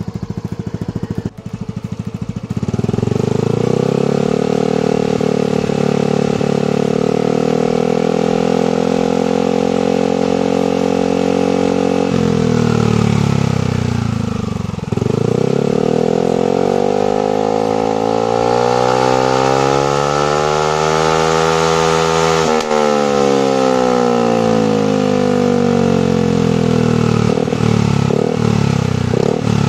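Yamaha NMAX scooter's single-cylinder engine running through a replica DOS oval long silencer: it is revved up from idle about two seconds in and held at a steady higher speed. About twelve seconds in it drops back, then climbs again in one long rise and falls away after about twenty-two seconds, with a few clicks near the end.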